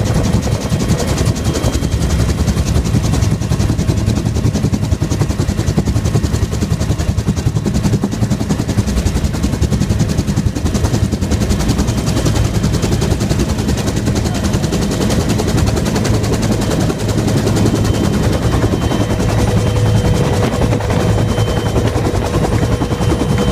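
Helicopter running, its rotor blades beating in a rapid, steady chop with a deep low drone underneath.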